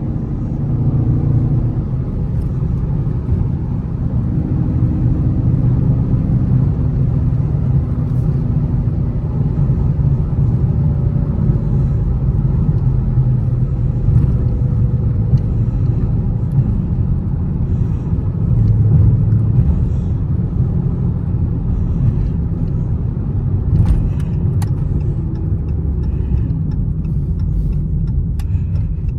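Dodge Charger Scat Pack's 6.4-litre HEMI V8 running while the car is driven, a steady deep rumble mixed with road noise.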